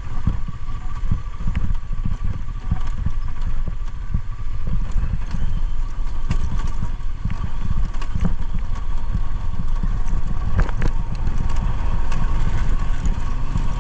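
Motorcycle being ridden on a trail: a steady low engine rumble with frequent knocks and rattles throughout.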